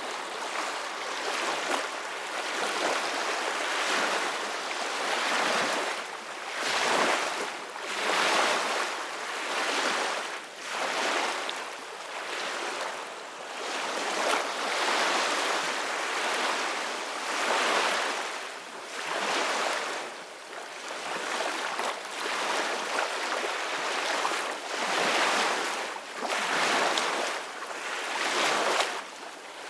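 Ocean waves breaking and washing in, a steady rush of surf that swells and fades every two to three seconds.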